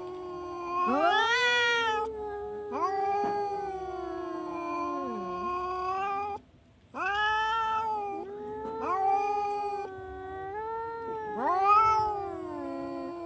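Domestic cat yowling in long, drawn-out calls that rise and fall in pitch, with a brief break about six seconds in before the yowling resumes.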